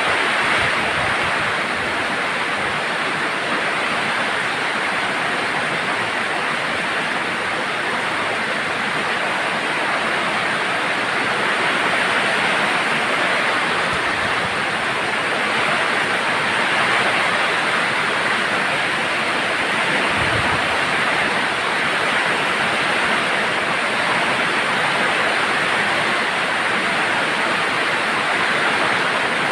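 Steady heavy rain falling, a continuous even patter, with a brief low rumble about twenty seconds in.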